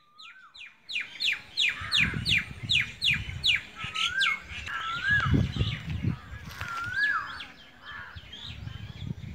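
Wild birds calling: a rapid run of sharp downward-sweeping notes, about three a second, over the first few seconds, and a repeated rising-then-falling whistle every second or so, with a low gusty rumble beneath.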